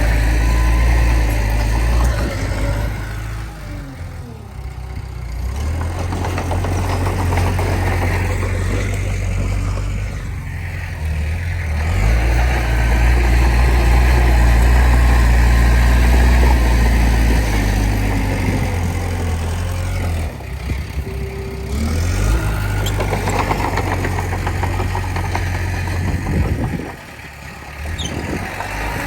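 Diesel earthmoving machinery working: a heavy engine runs steadily, its sound swelling and easing off several times as the load changes.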